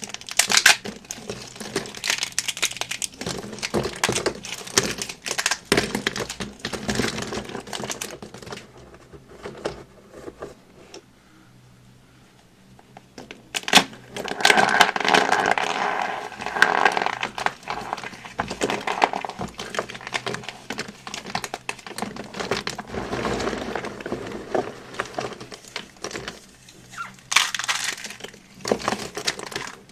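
Dry crumbly material crunched and crumbled by hand close to the microphone: dense crisp crackling and crunching. It stops for a few seconds in the middle, then resumes with a sharp crack and louder, steadier crunching.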